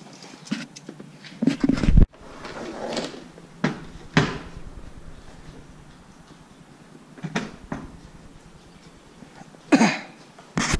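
Irregular knocks and clunks, about a dozen of them, like a door or latch being handled, with the loudest a heavy thump about two seconds in.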